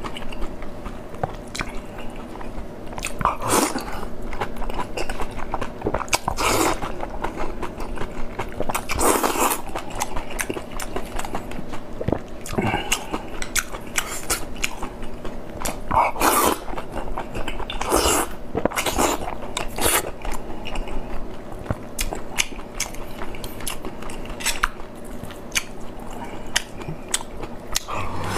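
Close-miked eating: wet chewing and biting of soft sliced boiled pork dipped in chili sauce, with constant small mouth clicks and about six louder bites spread through.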